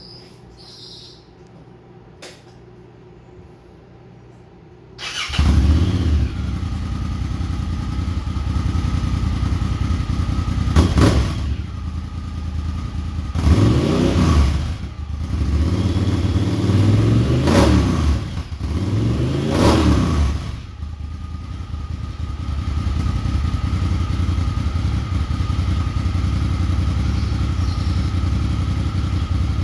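Honda Talon 1000R side-by-side's parallel-twin engine, breathing through an MBRP slip-on exhaust, catches and starts about five seconds in after a quieter stretch. It idles, is revved up and back down several times, then settles into a steady idle.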